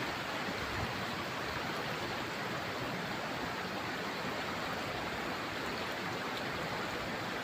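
River water rushing steadily over large stones in a fast, shallow stretch.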